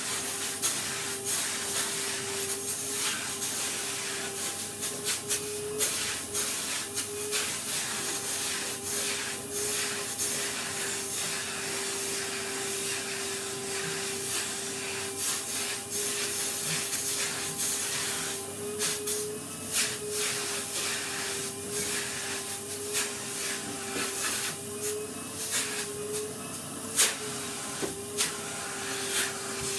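Vacuum cleaner running steadily, its motor tone wavering slightly over a rushing hiss of air, with frequent small clicks and rattles as grit and dust are sucked up.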